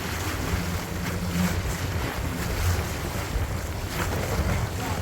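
Wind buffeting the microphone on a moving sailing yacht, with water rushing along the hull and a low steady hum underneath.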